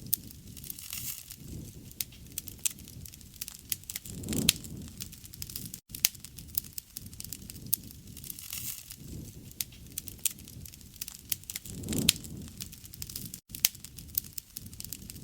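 Wood fire burning, with many sharp crackles and pops over a low rumble of flames. The rumble swells twice, about four seconds in and again near the end.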